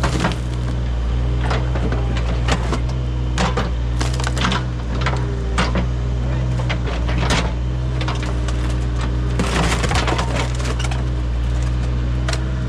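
A heavy digging machine's engine running steadily, with repeated cracking, splintering and clanking as buried wood and scrap are dug out and broken up.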